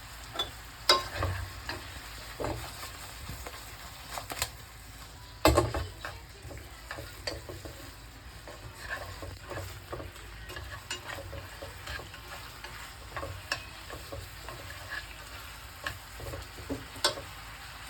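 Chicken wings sizzling in a frying pan of sweet-sour passion fruit sauce while a utensil stirs them, clicking and knocking against the pan many times, with the loudest knock about five and a half seconds in.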